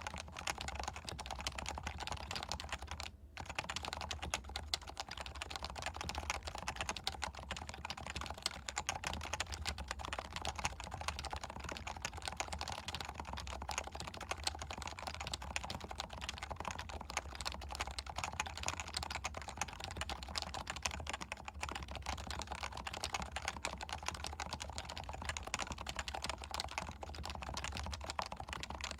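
Continuous fast typing on a Leopold FC660C keyboard with stock, non-silenced 45 g Topre switches: a dense, unbroken stream of keystrokes. A steady low hum sits underneath.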